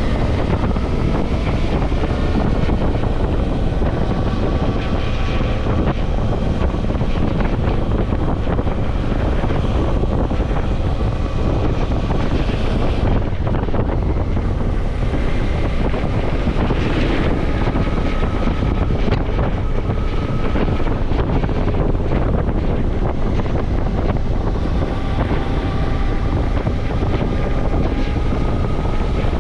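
Heavy wind noise on the microphone over a Suzuki V-Strom motorcycle engine running at road speed while riding, its pitch shifting a little as the throttle changes.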